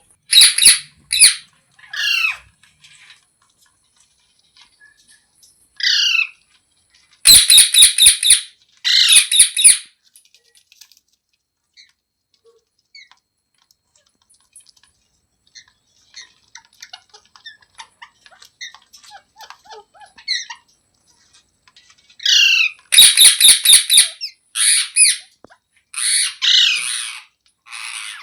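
Pet green parrot squawking: loud, shrill calls in bursts, some as rapid strings of short shrieks, with quiet gaps between them.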